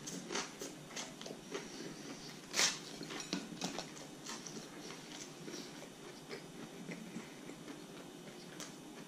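Chewing a mouthful of thick-cut toasted bread, with soft crunches and small clicks. A sharper knock comes about two and a half seconds in.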